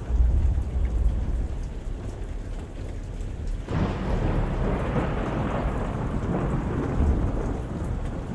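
Thunderstorm with steady rain. A deep thunder rumble comes right at the start, then a sudden thunderclap about four seconds in rolls on and fades over a few seconds, with another low boom near the end.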